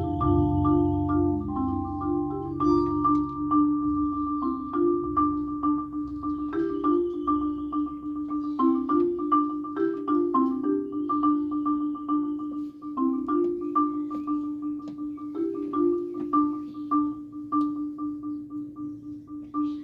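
Mallet percussion ensemble playing a repeating figure of short struck marimba-like notes over a low held bass that fades out within the first few seconds. The notes become sparser and quieter toward the end.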